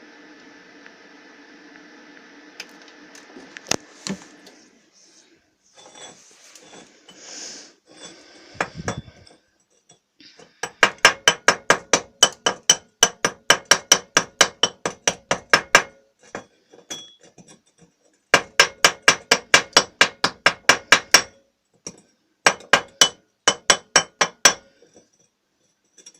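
A steel chipping hammer knocks slag off a fresh stick weld in three runs of quick, ringing metallic strikes, about five a second. It is preceded by a steady arc hiss that cuts off about four seconds in, as the electrode is broken away.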